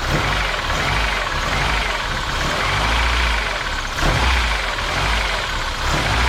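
Mercedes-Benz 190E (W201) engine running with a rattling noise, like a bearing noise or a tapping noise. The owner suspects either a failing pulley bearing on the fan-belt drive or a tappet.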